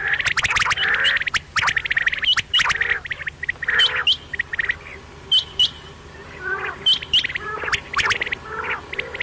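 Quails calling: a dense run of overlapping calls, then separate short, sharp whistled notes, several of them in quick pairs, and softer calls near the end.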